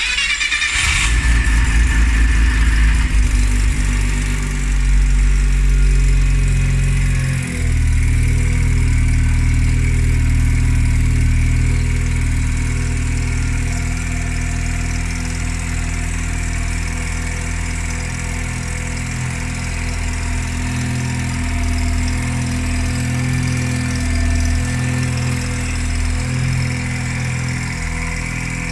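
Mazda RX-7 FD3S's 13B-REW twin-rotor rotary engine, fitted with a GTX3582R Gen II turbo kit, being started for the first time after an engine overhaul. It cranks and catches within about a second, stumbles briefly about seven seconds in, then settles into a steady idle.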